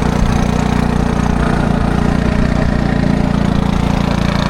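An engine running steadily at an even speed, loud and close, cutting off suddenly at the very end.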